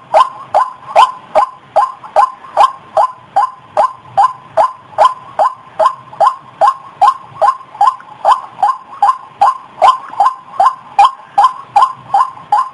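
White-breasted waterhen (ruak-ruak) calling as a lure recording: a loud, rapid, even series of short falling notes, about two and a half a second.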